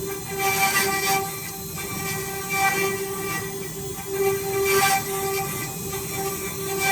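Woodworking drilling machine running with a steady pitched motor whine, broken by several short rushing bursts of the bits cutting into the wooden legs about every one to two seconds.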